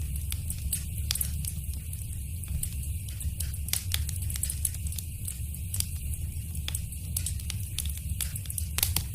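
Wood fire crackling in a fireplace: frequent irregular small snaps and pops over a steady low rumble, with one louder pop near the end.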